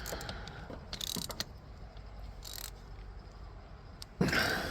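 Socket ratchet clicking in short strokes as a long ground-cable bolt is run down snug on a tractor, with a louder scraping noise near the end.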